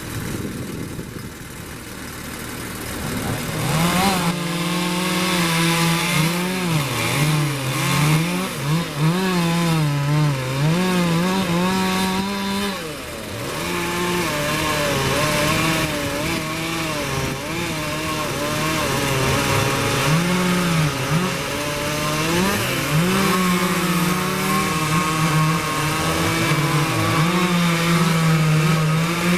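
Chainsaw cutting wood at high revs. Its engine pitch keeps dipping and rising as the chain loads up in the cut. It is quieter for the first few seconds, comes up to full speed about four seconds in, and drops briefly about twelve seconds in.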